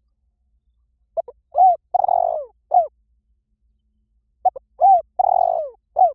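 Spotted dove cooing its lure call: two repeated phrases, each of four notes, the third a longer rolling coo.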